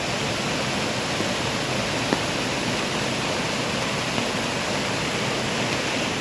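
Steady rushing water noise, like heavy rain or a fast mountain stream, even and unbroken, with one small sharp tick about two seconds in.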